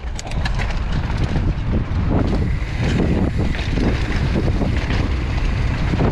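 Wind buffeting the rider's camera microphone, with the rumble and rattle of a mountain bike rolling fast down a dirt trail.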